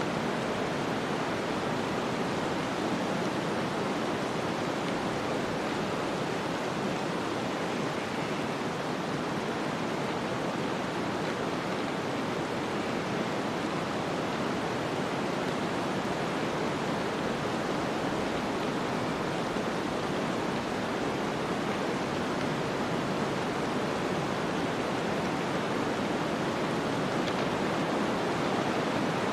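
Snowstorm ambience: a steady, even rushing noise of wind-driven snow that holds at one level, with no separate sounds standing out.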